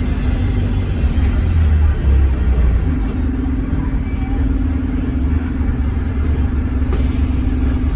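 Scania K230UB bus diesel engine running with a heavy low rumble. A steady droning note comes in about three seconds in, and a hiss starts near the end.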